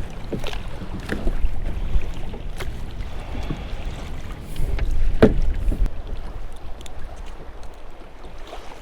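Wind buffeting the microphone and chop slapping against a kayak's hull, with a few sharp knocks, the loudest about five seconds in.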